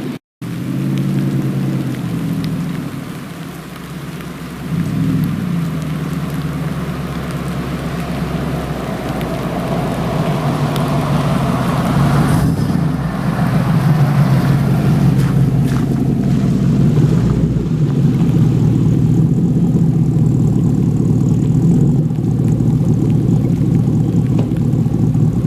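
Hummer H2's big-cam GM V8 (an LQ4 bored to 6.2 litres, Stage 2 Melling cam) running through a 3-inch true-dual aFe Mach Force exhaust. It swells briefly about five seconds in, builds from about eight to thirteen seconds in, then holds a steady loud drone to the end, like a vehicle pulling under way.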